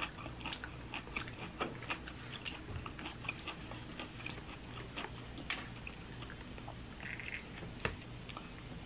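Eating sounds: chewing salad and food, a steady run of small mouth clicks and crunches, with a sharper click about five and a half seconds in and another near eight seconds.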